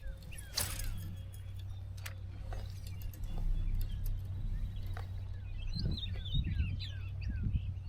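A bird singing a run of quick, falling chirps from about halfway through, over a low steady rumble, with a few sharp clicks in the first half.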